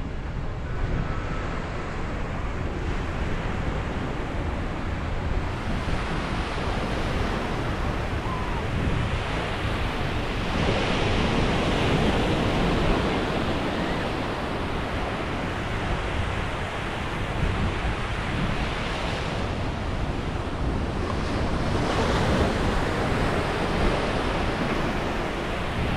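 Ocean waves breaking and washing onto a beach, a continuous surf that swells louder twice, about ten seconds in and again near the end, with wind buffeting the microphone.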